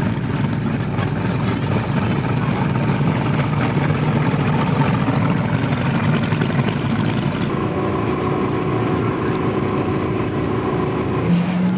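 Sports car engines running at low speed: an uneven, deep exhaust note for the first seven seconds or so, giving way to a steadier, smoother engine tone, with a stronger low note coming in near the end.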